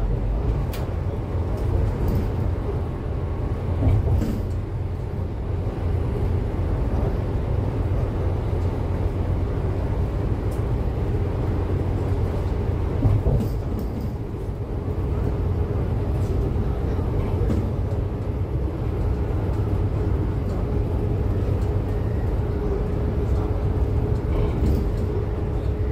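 Cummins ISF3.8 four-cylinder diesel in a Daewoo Lestar minibus running steadily, a dense low rumble heard on board, with a faint steady whine and scattered light clicks and rattles.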